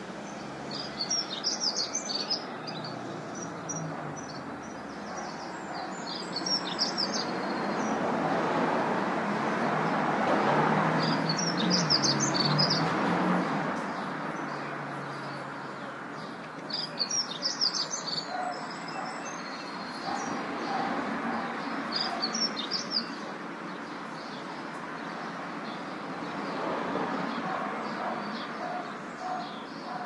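Birds chirping in short clusters of high chirps that come back every four to six seconds, over a steady rushing background that swells and then fades in the middle.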